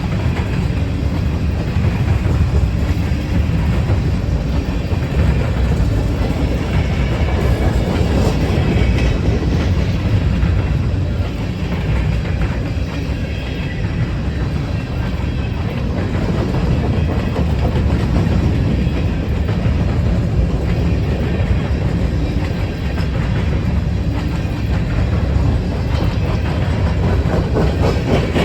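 Train rolling past close by: a steady rumble of wheels on rail, keeping up without a break for the whole time.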